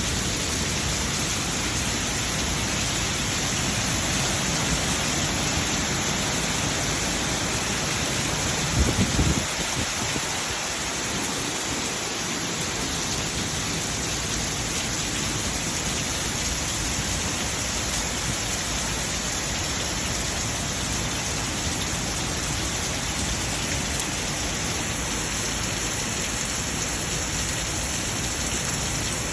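Heavy rain pouring down in a steady, even hiss, with a brief low thump about nine seconds in.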